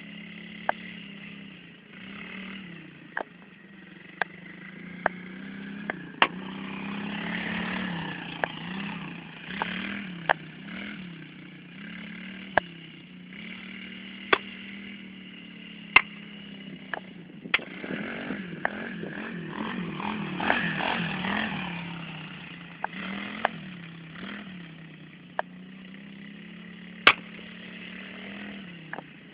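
Yongshe 110cc four-stroke pit bike engine running as it is ridden, its pitch rising and falling again and again with the throttle. Sharp clicks break in now and then.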